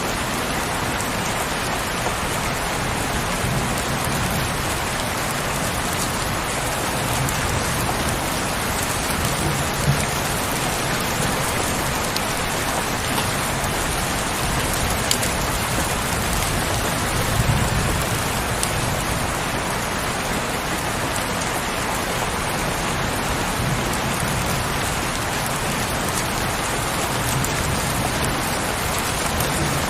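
Heavy rain falling steadily, an even hiss with scattered individual drop impacts. Now and then a soft low rumble swells under it.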